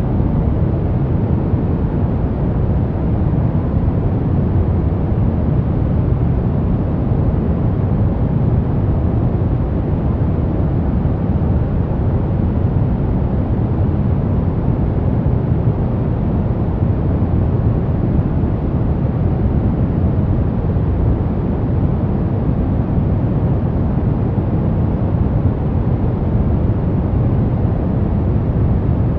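Steady sleep white noise: an even, constant rushing hiss weighted toward the low end, with no change or break.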